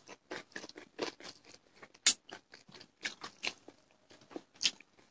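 Close-up eating sounds of people eating by hand: chewing, wet lip smacks and mouth clicks in a quick irregular series, with one sharper smack about two seconds in.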